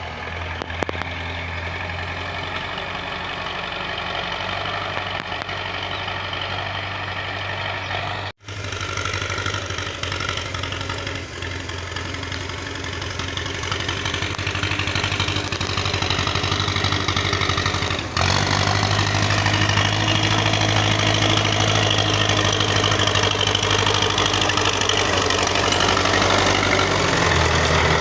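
Tractor engine running steadily under work, a continuous low drone. It breaks off for an instant about eight seconds in and is louder from about eighteen seconds on.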